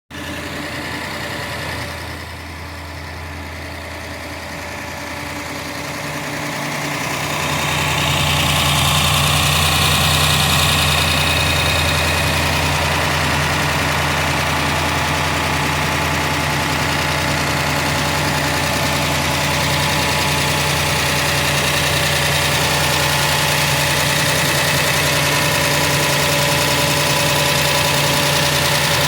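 Vehicle engine idling steadily, heard close up from the driver's side of the engine compartment; it grows louder about seven seconds in and stays there.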